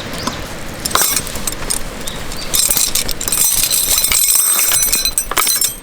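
Metal cookware and utensils clinking and scraping as cooking begins. There are a few knocks about a second in, then dense, bright clinking through the second half.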